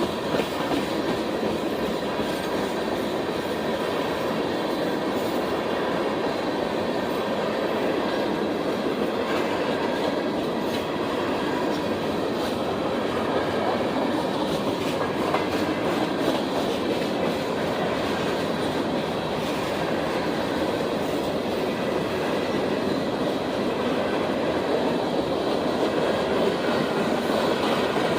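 A train's cars rolling steadily past on the rails, with wheel noise that does not let up.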